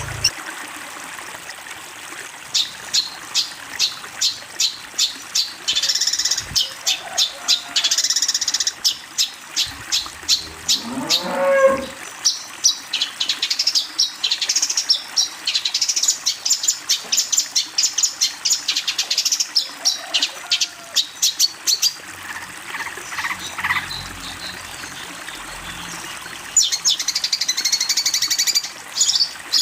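Recorded songbird calls of the kind used as masteran for training a long-tailed shrike: rapid runs of sharp, high chip notes, about three a second, in bursts. About a third of the way in comes a lower call that slides up and back down.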